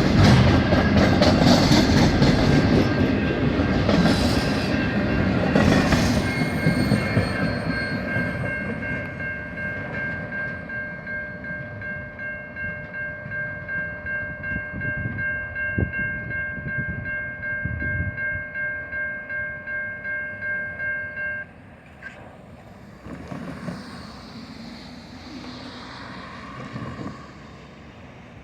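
A freight train's cars rolling past, their loud rumble and rattle on the rails fading into a rhythmic clickety-clack of wheels over rail joints, with a steady high-pitched wheel squeal. About three-quarters of the way through, the squeal and clatter cut off suddenly, leaving only faint background noise.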